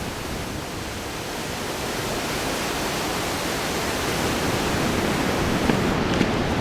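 Steady rushing of the Krimml Waterfalls, a dense, even noise of falling water that grows a little louder over the first few seconds.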